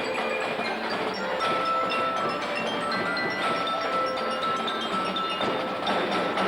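A competing band playing, with bright struck bell-like notes from mallet percussion such as a glockenspiel ringing over the dense band sound.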